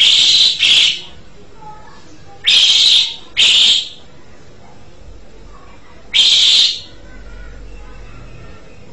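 Jalak suren (pied starling) giving loud, harsh calls about half a second long: a pair at first, another pair about two and a half seconds in, then a single call about six seconds in.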